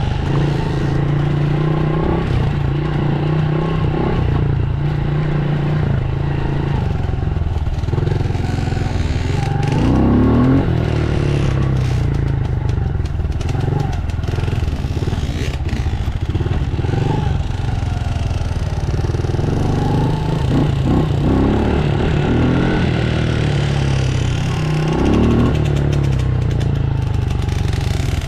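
Dirt bike engine running, revving up and down several times, with the sharpest rises about ten seconds in and again near twenty and twenty-five seconds.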